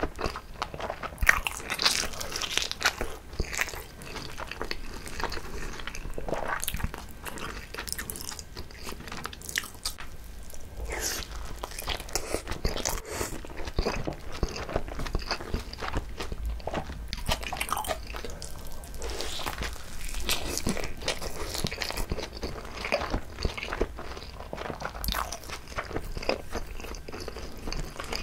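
Close-miked biting and chewing of a whole gimbap roll (seaweed-wrapped rice roll with cheese), a steady run of short, irregular crackles from the seaweed and rice between the teeth.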